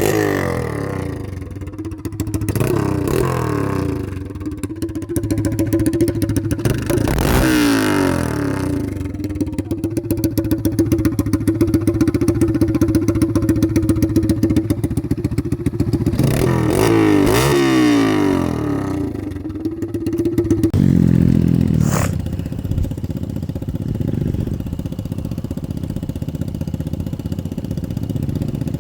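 Straight-piped 125 cc dirt bike engine running and being ridden, revving up and down several times, then settling to a lower, steadier note about three-quarters of the way through, with one sharp click shortly after.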